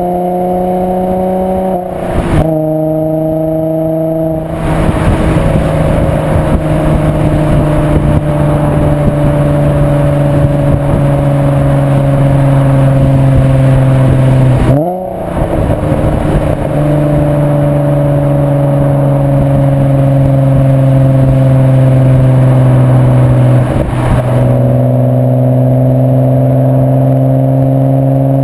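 VW Bora/Jetta mk4 2.8 VR6 24V engine running under load through a Milltek non-resonated exhaust, with a steady, loud exhaust note. The note breaks and changes pitch about 2 seconds in, again near the middle and once more near the end, as gears are changed.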